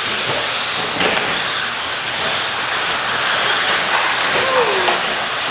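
Radio-controlled stadium and short course race trucks running on the track, their motors making a high whine that rises and falls over a steady rushing noise.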